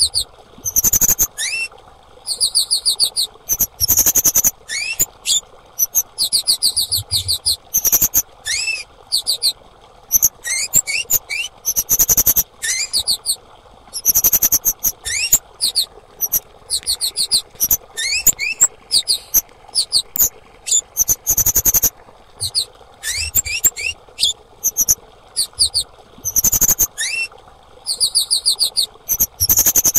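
Female kemade calling: quick trains of high, sharp chirps, each cluster opening with a short upward-slurred note, repeated in bursts every second or two. A lure call, used to prompt silent or stressed caged kemade into song.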